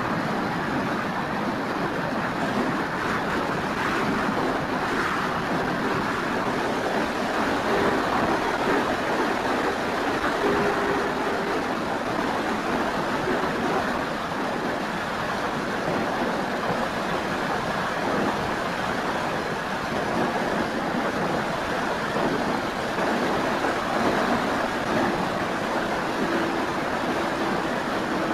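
Steady rush of wind and airflow over a keychain camera riding on an FMS Cessna 182 RC model plane in flight. The electric motor and propeller's faint tone drifts up and down beneath it.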